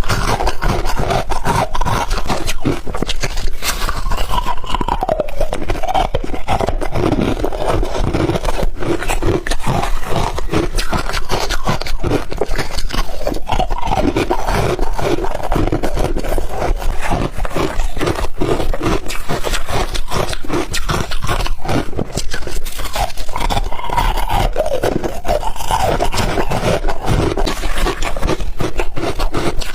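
Crunchy ice being chewed close to the microphone: a dense, unbroken run of loud crunches and crackles.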